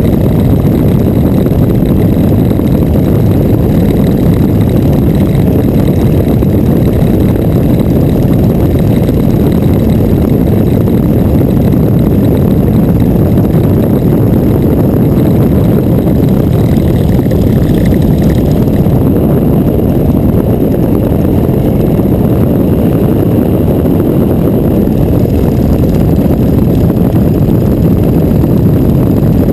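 Boeing Stearman biplane's radial engine running, a loud steady drone.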